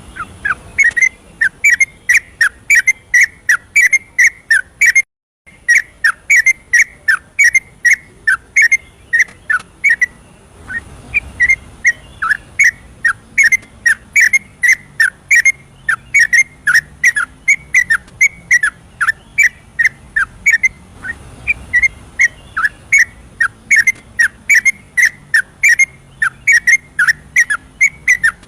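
Yellow-vented bulbul singing a long, rapid run of short whistled notes that fall in pitch, about three a second, with a brief break about five seconds in.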